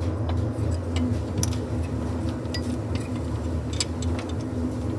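A few light, scattered metallic clicks of hand tools and sockets being handled on the car's underside, over a steady low hum.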